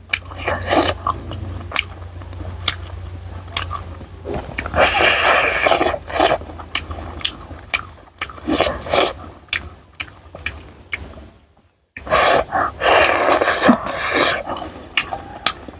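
Close-miked eating sounds: a person chewing and biting food, with many sharp wet clicks and smacks. There are two longer, louder noisy stretches of eating, one about five seconds in and one just after a brief dropout near twelve seconds.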